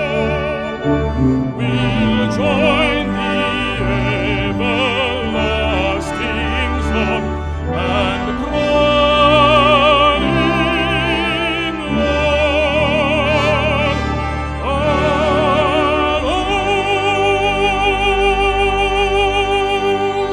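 Baritone voice singing a hymn with wide vibrato over a brass ensemble, the last phrases building to one long held final chord about four seconds from the end.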